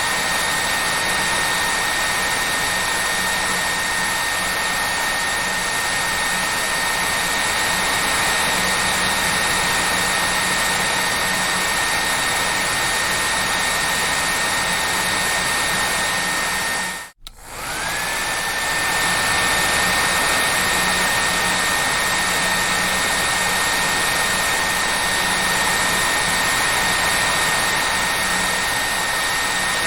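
Hair dryer running steadily: a rushing airflow with a high motor whine and a low hum. About 17 seconds in, it cuts out for a split second, and the whine rises back up to pitch as it returns.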